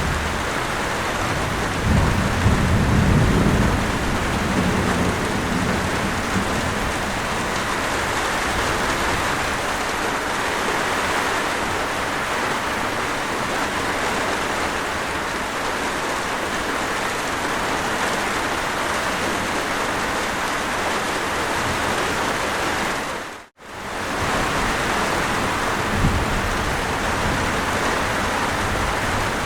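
Steady heavy rainfall with a low roll of thunder about two to five seconds in. About 23 seconds in, the rain cuts out to silence for a split second and then resumes.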